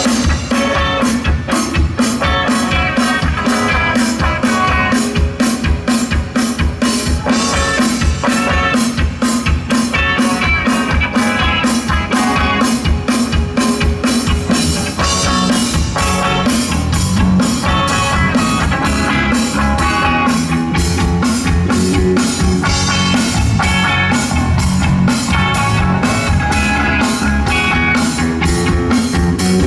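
Live rock band playing an instrumental passage: a drum kit keeps a steady beat under guitar.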